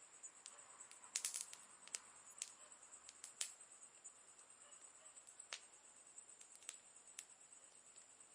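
Campfire crackling: sparse sharp pops and snaps from the burning wood, with a quick cluster of them about a second in, over a steady high hiss.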